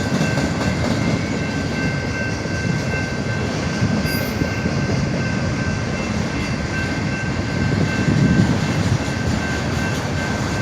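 Freight train rolling slowly through a grade crossing: a steady rumble of wheels on rails, with a faint steady high-pitched tone over it.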